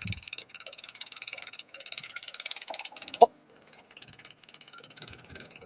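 Ventilation window mechanism of a mobile chicken coop being cranked, a rapid ratcheting clatter in three stretches with a short knock about three seconds in, the last stretch fainter.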